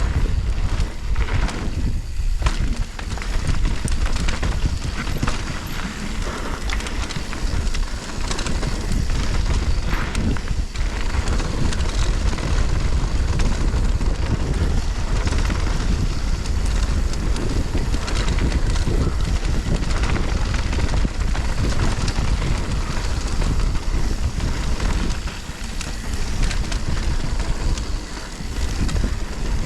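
Wind buffeting the microphone over the sound of a mountain bike descending a dirt trail: tyres rolling on rough ground, with many short rattles and knocks as the bike goes over bumps.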